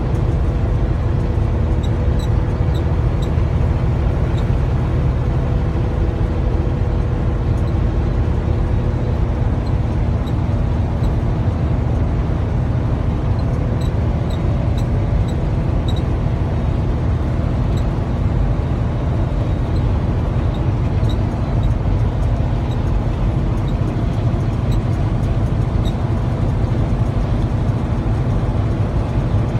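Steady low drone of a semi-truck cab at highway cruising speed: the diesel engine and tyre noise, with faint light ticks scattered through it.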